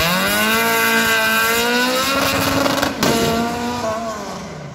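Car engine revving hard and held high through a gymkhana run, its pitch rising at first and then staying nearly level. It dips briefly about three seconds in, then fades away near the end.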